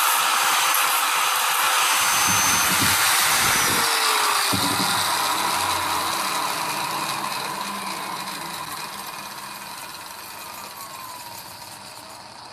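A power tool running with a loud, hissing whir; faint tones in it slide downward as it gradually dies away over the second half.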